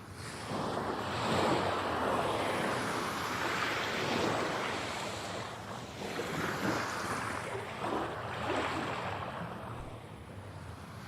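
Sea waves breaking and washing in, a rushing surf that swells about a second in, surges again a few times and eases off near the end.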